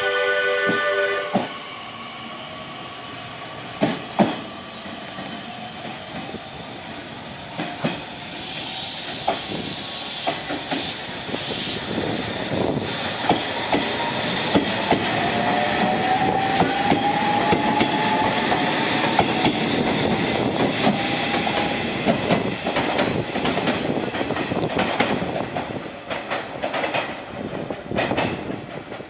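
Electric trains pulling out of a station, with wheels clacking over rail joints and points as the cars roll by. A brief horn sounds at the very start. A faint rising motor whine from about 15 to 22 s comes as the converted Nishitetsu 6050 series dining train THE RAIL KITCHEN CHIKUGO accelerates away.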